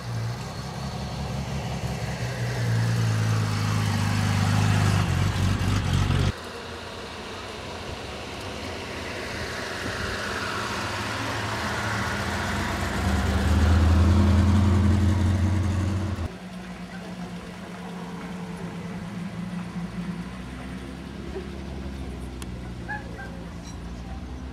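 Engines of classic cars driving slowly past one after another at low revs, each growing louder as it comes near. The sound changes abruptly twice as one vehicle gives way to the next.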